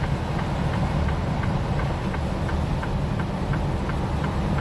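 Semi-truck cab interior: steady engine and road rumble while driving, with a light rhythmic clicking about three times a second from the tire chains turning on the road.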